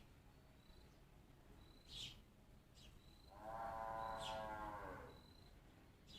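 A single long, drawn-out animal call lasting about two seconds, starting about three seconds in, with a few short, high bird chirps around it.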